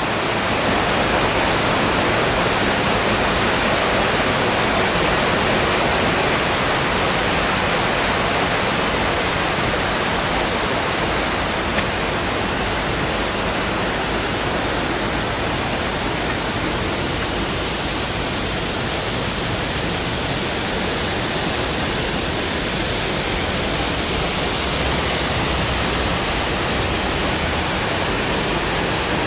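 Water rushing steadily: a loud, even hiss of falling or flowing water that holds unchanged throughout.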